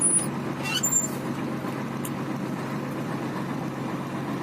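Scania truck's diesel engine running steadily, with a couple of brief high squeaks in the first second.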